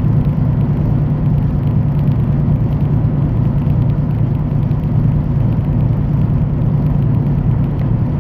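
Semi-truck driving at steady speed: a constant low drone of engine and road noise.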